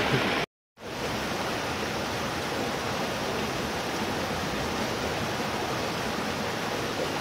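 Steady rain hissing, an even wash of noise with no distinct drops or other events; the sound cuts out completely for a moment about half a second in, then resumes unchanged.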